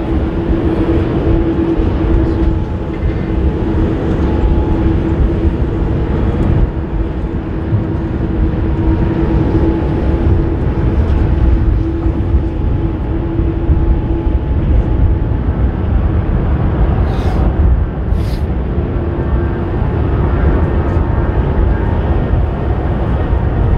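Distant jet engines of a Boeing 787-10 airliner running steadily with a constant hum, under a heavy low rumble of strong wind on the microphone.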